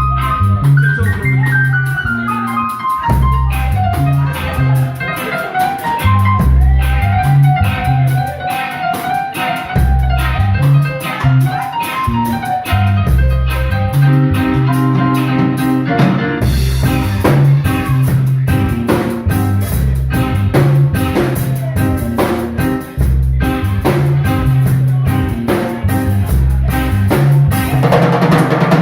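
A live instrumental band playing: drum kit and bass keep a beat under a moving lead melody line, and the cymbals come in louder about halfway through.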